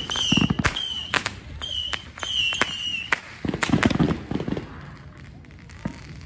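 Fireworks going off: several short, high, steady whistles and sharp cracks in the first three seconds, then scattered pops that grow quieter after about halfway.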